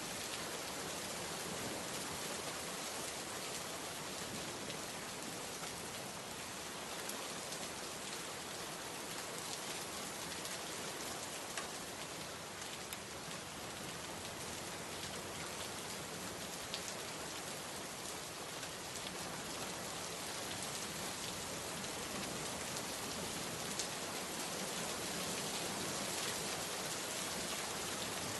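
Steady rainstorm: an even hiss of heavy rain falling on surfaces, with a few sharper single drop hits, one about halfway through and one near the end.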